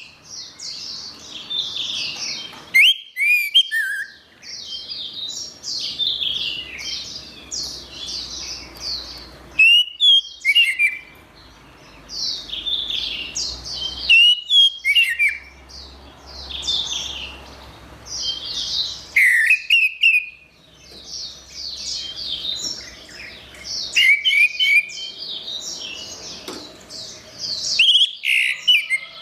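Orange-headed thrush (anis merah) singing. Loud short whistled phrases rise and fall every four to five seconds, with a steady stream of quicker, quieter high warbling and chirping between them.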